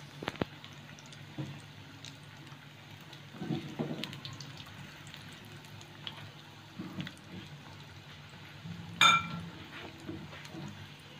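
Bread rolls sizzling in hot oil in a frying pan, with a spatula knocking and scraping against the pan now and then as the rolls are turned; a sharp, ringing clink about nine seconds in is the loudest sound. A low steady hum runs underneath.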